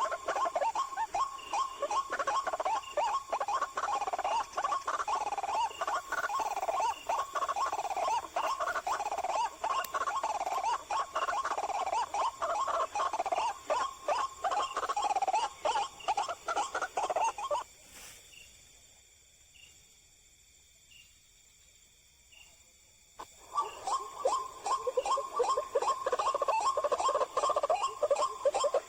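White-breasted waterhen (ruak-ruak) calls, a dense run of rapidly repeated croaking notes. They stop abruptly about 18 seconds in, leaving near silence for about five seconds, then start again just as abruptly.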